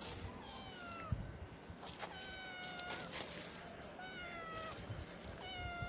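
Stray kitten meowing for food: about four long, drawn-out meows, each about a second long and falling in pitch at its end, one every second and a half or so.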